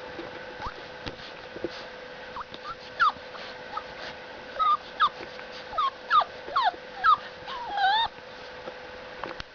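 Boxer puppy whimpering and yipping: a string of short, high-pitched whines, coming faster and louder from about three seconds in, with a longer wavering whine near the end.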